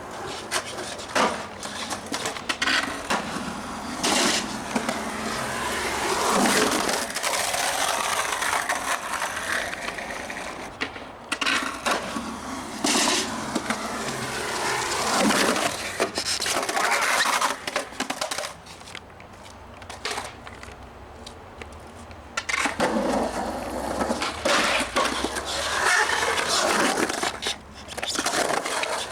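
Skateboard wheels rolling and grinding on concrete, with sharp clacks of the board hitting the ground every few seconds between quieter lulls.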